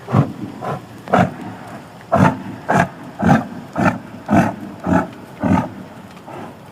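An animal giving a series of about ten short, rough calls, roughly two a second, with one longer pause between the second and third.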